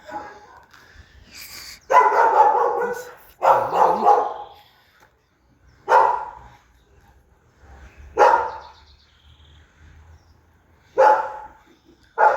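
A dog barking: about six barks, the first two drawn out and the rest short and sharp.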